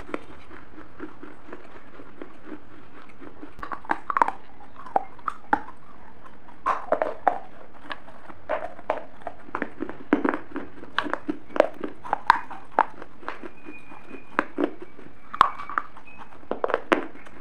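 Close-miked crunching and chewing of a brittle snack: irregular sharp crunches and crackles. They thin out for a few seconds near the start, then come thick and fast.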